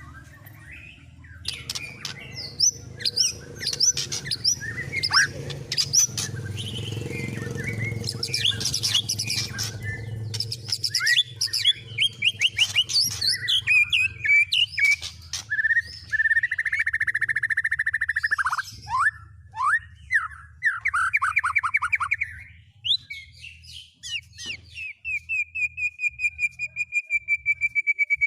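White-rumped shama (murai batu) singing a fast, varied song of chirps, whistled glides and trills, mixing in mimicked phrases of other songbirds. It includes a buzzy trill partway through and a long, even run of rapid repeated notes near the end, over a low steady hum for the first half.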